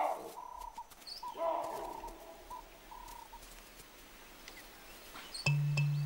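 Birds calling, a run of short repeated notes, with a steady low music drone coming in near the end.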